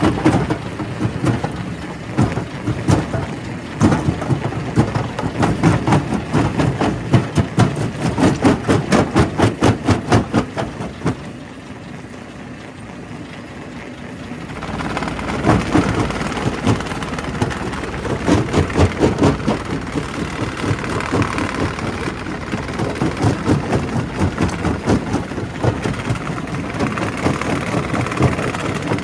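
Primary rock crusher running with rock being crushed: a loud, rapid, pulsing clatter of stone breaking over the machine's drone. It eases off to a quieter, steadier run a little before the middle, then the clatter picks up again.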